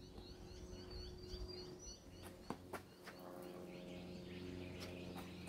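Small birds chirping, quick repeated high calls strongest in the first second or so, over a faint steady low hum; two short clicks halfway through.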